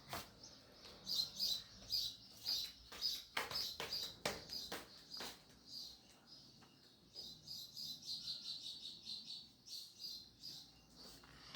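Birds chirping in short, high, repeated notes, coming quickly in a run in the second half, with scattered sharp clicks among them.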